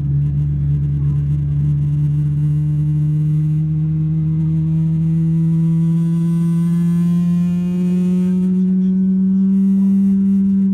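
Boeing 777-300ER's GE90-115B turbofan engine spooling up during engine start, heard from the cabin: a loud steady hum with a rising whine above it, climbing slowly in pitch and cutting off abruptly at the end.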